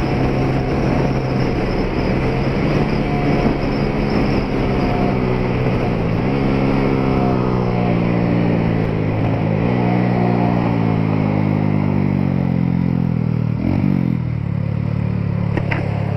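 Motorcycle engine with a Pro Tork Competition exhaust, running under way. Its pitch sags as it slows and rises briefly three times, about six, nine and a half and thirteen and a half seconds in, before settling into a steady lower note near the end. Wind and road noise sit underneath.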